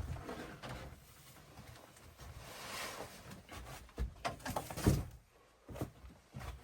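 Scattered dull knocks and thumps of objects being handled, with a short stretch of rustling a little before the middle; the loudest thump comes near the end.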